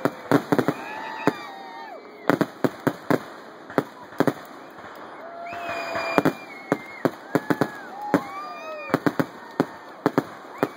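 Aerial fireworks display: a rapid, irregular run of sharp shell bursts and crackling reports, at times several a second. Long held tones that bend downward sound over them now and then.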